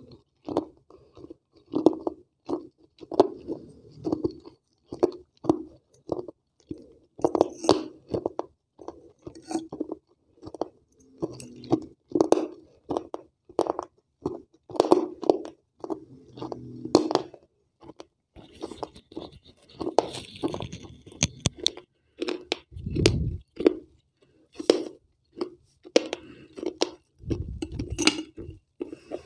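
Crunching and chewing of pieces of a water-soaked terracotta clay piggy bank (gullak), close to the microphone: an irregular run of crisp crunches, one or two a second. Two dull low thumps come in the second half.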